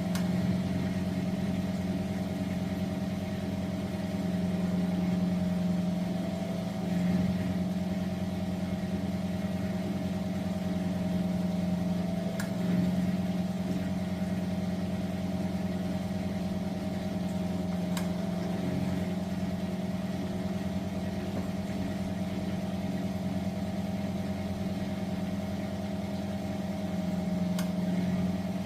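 Miele De Luxe W423 washing machine running, its motor giving a steady hum that swells and eases slightly, with a few faint clicks.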